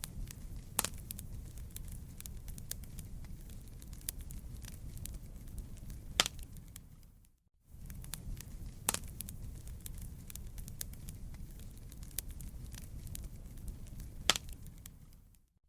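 Wood fire crackling and popping over a low steady rumble of burning, with a few sharper pops standing out. The sound briefly fades to silence about halfway through and comes back.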